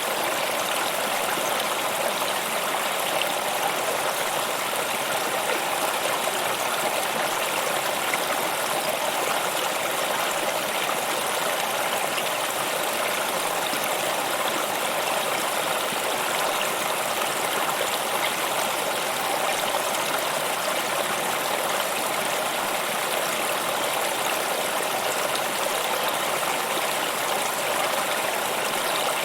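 Stream water flowing steadily, an even rushing and trickling with no change.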